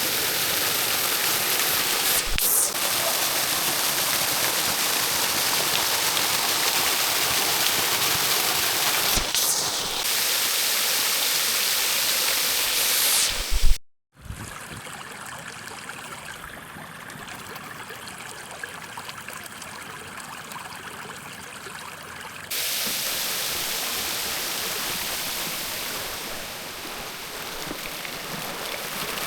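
Dreimühlen waterfall, where the Mühlenbach drops 4 to 6 m over a width of about 12 m, rushing steadily. The sound breaks off abruptly about halfway through, returns quieter, and grows louder again a few seconds before the end.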